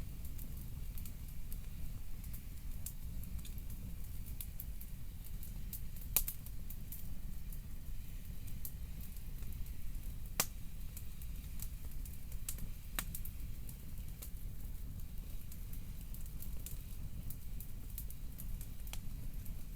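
Wood fire crackling, with scattered sharp pops, a few of them louder, over a low steady rumble.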